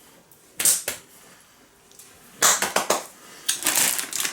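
Plastic candy packaging being handled and crinkled close to the microphone: a short crackle about half a second in, then clusters of crinkling from about two and a half seconds that grow denser near the end.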